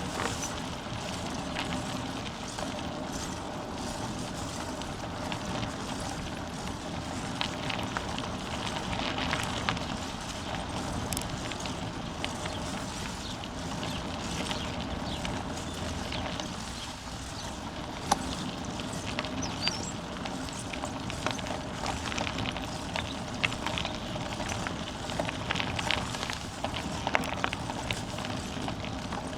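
Bicycle rolling along a path: steady tyre rolling noise with many scattered clicks and rattles from the bike over the rough surface.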